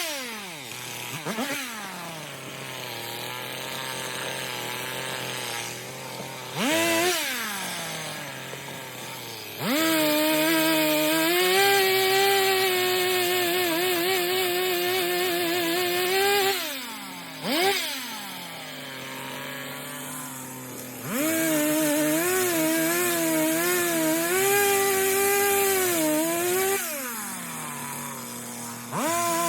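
Chainsaw cutting wood in two long cuts, its engine held at high revs with a wavering pitch under load, dropping back to idle between cuts, with short blips of the throttle.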